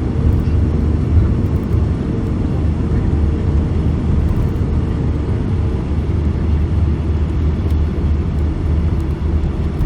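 Cabin noise inside a four-engined Airbus A340-600 rolling on the ground just after landing: a steady low rumble with a faint steady hum that fades out about six seconds in.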